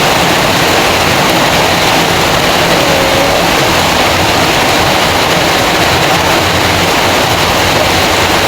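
Heavy rain falling, a loud, steady hiss of water that doesn't let up.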